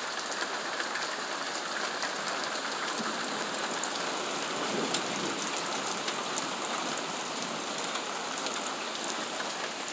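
Steady rain falling during a thunderstorm, a continuous hiss dotted with the ticks of drops striking nearby surfaces, with a brief louder swell about five seconds in.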